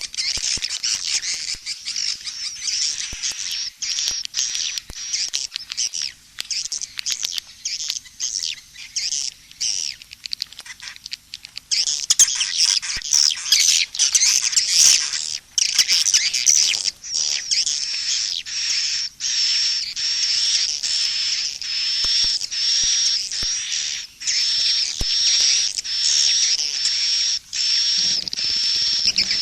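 Recorded calls of edible-nest swiftlets mixed into a swiftlet-house lure track: a dense, continuous high twittering of rapid chirps. About twelve seconds in it turns fuller and settles into an even run of repeated chirps.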